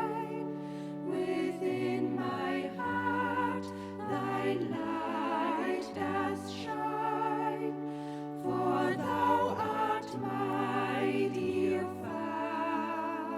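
A choir singing slowly over an instrumental accompaniment, with held chords and a bass line that moves every second or two.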